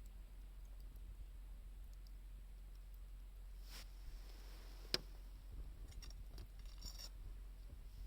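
Wood fire burning quietly, with a few sparse crackles from the burning wood and one sharp pop about five seconds in, over a faint low rumble.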